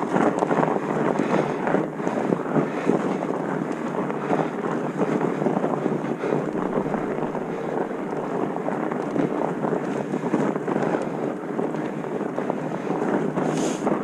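Sliding down a ski run: edges scraping and hissing steadily on snow, with wind rushing over the microphone.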